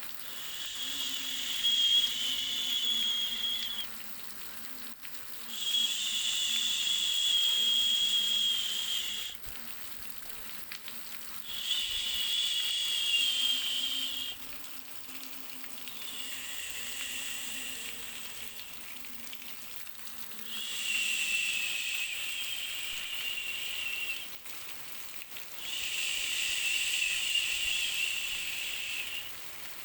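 High-pitched insect buzzing in repeated bouts of about three to four seconds each, six of them with short lulls between, over a faint low hum.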